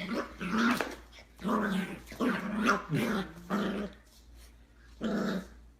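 A dog making a string of short, pitched growling vocalizations, with a pause before a last one near the end.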